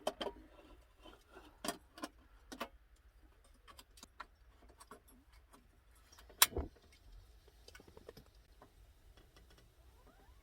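Scattered small clicks and knocks from handling camp cooking gear at a gas stove, with one sharp, much louder knock a little past halfway.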